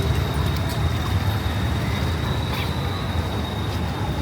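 Street ambience dominated by a steady low rumble of traffic, with a thin, steady high whine above it and a few faint ticks.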